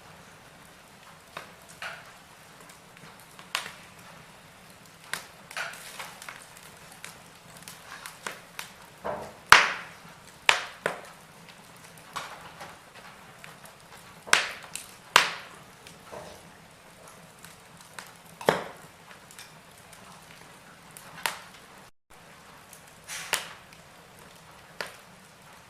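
Fireplace fire crackling, with irregular sharp pops and snaps over a faint steady hiss. The loudest pops come about a third of the way in and again a little past halfway.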